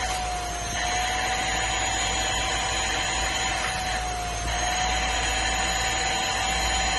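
Vacuum cleaner running steadily while cleaning a van's interior: a constant motor whine over rushing air that sags slightly in pitch twice as the nozzle is worked.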